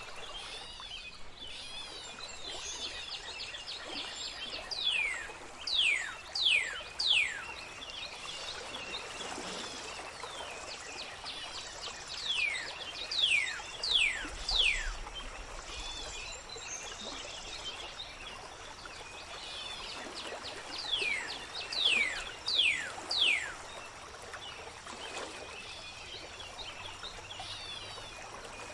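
Gently flowing water trickling steadily, with a songbird repeating a phrase of four quick, falling whistled notes about every eight seconds and fainter chirping from other birds in the background.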